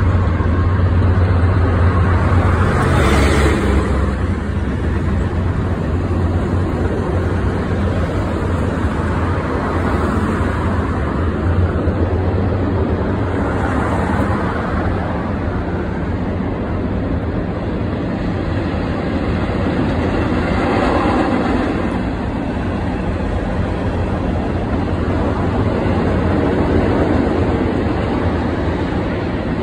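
Union Pacific freight cars rolling past: a steady rumble of steel wheels on rails. A low diesel locomotive drone fades out about three seconds in.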